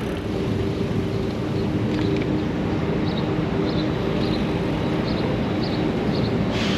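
Wind and tyre noise from a gravel bike rolling along at speed, with a steady low hum and faint, evenly spaced ticking about twice a second.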